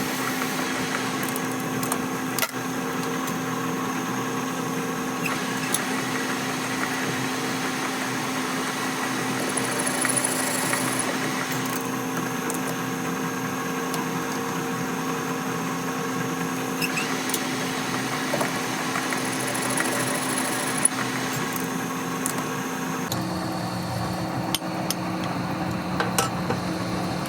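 Metalworking shop noise: a machine running steadily, with occasional sharp metal taps and knocks and two brief high squeals.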